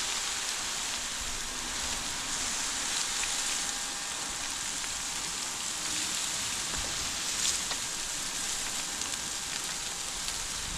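Wood chips sliding and pouring out of a tipping dump-truck bed: a steady, even hiss with scattered faint ticks of chips landing.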